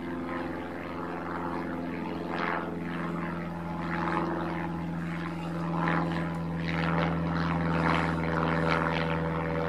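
An aeroplane flying over: a steady engine drone that grows a little louder toward the end.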